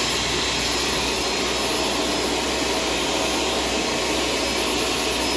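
Shark vacuum cleaner with a self-cleaning brush roll running steadily: a constant motor whir and rush of air, with a thin high whine over it.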